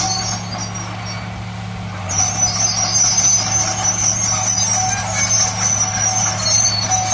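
Heavy diesel earth-moving machinery running steadily, with a high hiss over the engine note that falls away for about a second and a half near the start and then returns.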